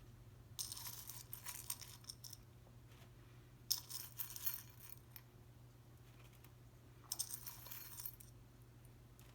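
Small pebbles clicking and clinking against each other as they are handled and set down, in three short spells.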